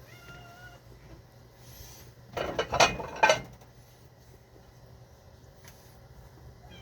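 Pet cats meowing for food. A faint call comes at the start, and the loudest meows come in a cluster from about two and a half to three and a half seconds in.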